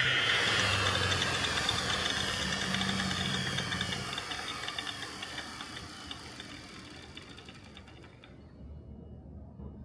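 A workshop power tool's motor winding down after being switched off: a whirring whose pitch falls as it fades away over about eight seconds.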